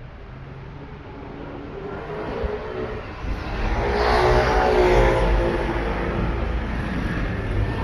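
A motor vehicle passing close by on the street, its engine note growing louder over a few seconds, peaking about halfway through, then holding, over steady traffic noise.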